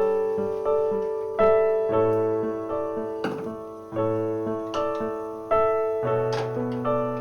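Soft solo piano music, with notes and chords struck roughly once a second and each left to ring and fade.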